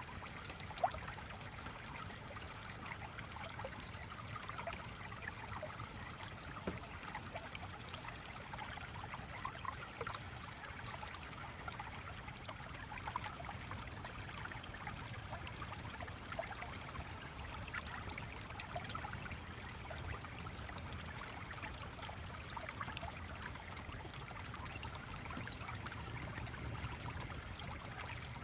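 Stream water trickling and babbling steadily, with small splashes throughout and a single sharp click about a second in.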